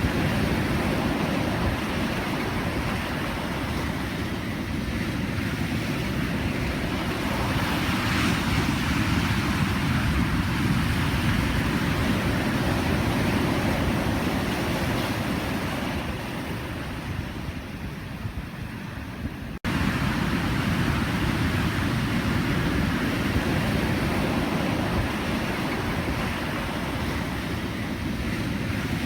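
Pacific Ocean surf washing in a steady, continuous rush of breaking waves. It eases off a little a few seconds past the middle, then cuts out for an instant and comes straight back at full level, like an edit in the recording.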